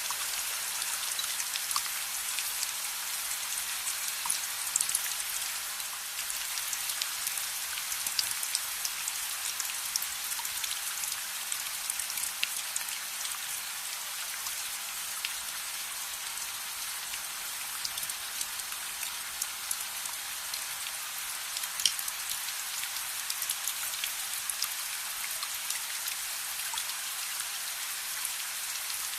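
Steady rain falling, an even hiss with scattered sharp drop ticks and pops throughout.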